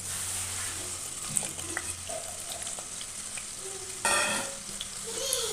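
Potato pieces frying in hot oil in a kadai, a steady sizzle with small clicks as they are stirred. A brief louder sound comes about four seconds in.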